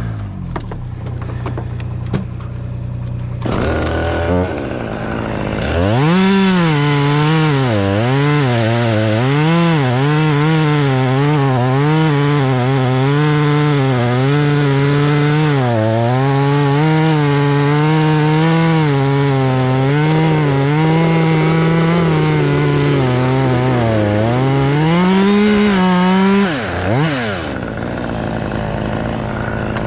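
Chainsaw engine opening up and cutting into a tree trunk, its pitch sagging and recovering again and again under the load of the cut for about twenty seconds. It is preceded by a few seconds of a low steady engine hum, and near the end it drops back to idle.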